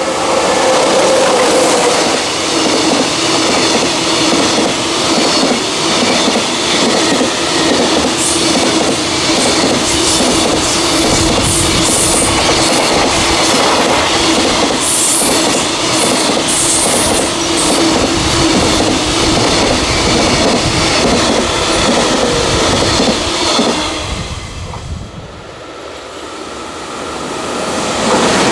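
Freight train running past at speed: steady rumble and rail noise with a quick run of wheel clacks over rail joints. The sound dips briefly near the end, then rises again.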